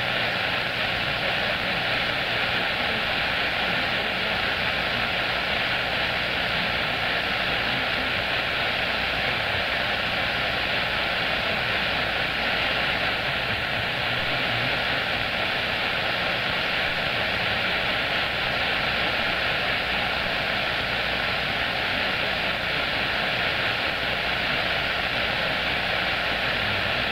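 CB radio receiver on the 11-metre band with open squelch between transmissions: a steady hiss of band noise through the speaker, with a faint, steady high tone under it.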